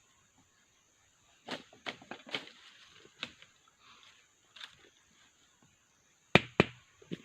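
Irregular knocks and snaps of handwork on a trap, with two loud sharp knocks about six seconds in.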